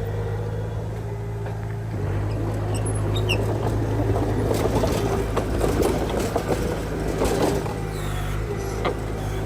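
Komatsu D20P bulldozer's diesel engine running steadily and taking more load about two seconds in, with dense clattering and rattling through the middle.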